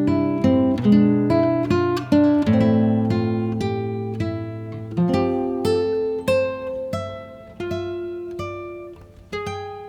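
Background music: an acoustic guitar picking single notes and chords, each note ringing and then fading.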